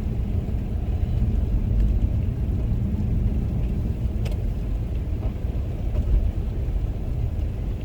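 Steady low rumble of road and engine noise inside a car's cabin as it drives slowly over a snow-covered road, with a faint click about four seconds in.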